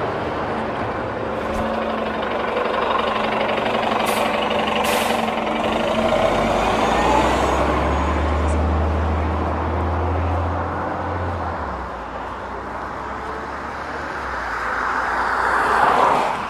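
City bus at the stop and pulling away: two short air hisses about four and five seconds in, then the engine running with a low drone for several seconds. Near the end a swell of traffic noise builds and then drops away.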